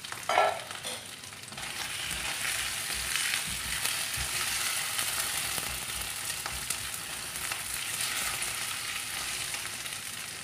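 Diced potatoes, curry leaves and green and red chillies sizzling in hot oil in a steel kadhai while being stirred, a steady frying hiss with small scrapes and clicks. A brief loud knock comes about half a second in.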